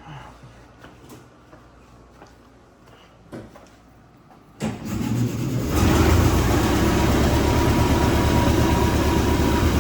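A few faint clicks, then about four and a half seconds in the 1926 Voisin's sleeve-valve engine starts from cold, catching at once and settling into loud, steady running.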